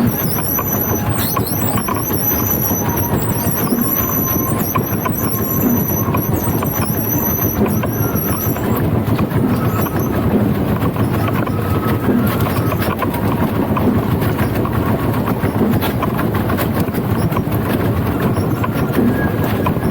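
Danjiri festival float rolling with a steady, loud rumbling noise. A high, wavering squeal, typical of the float's wheels, sounds over it and stops about eight seconds in.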